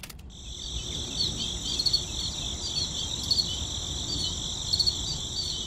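Crickets chirring steadily in a high band, with short bird-like chirps now and then; the sound begins abruptly just after the start, as an ambience track would.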